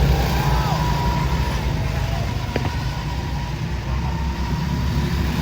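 Motor engines running with a steady low rumble.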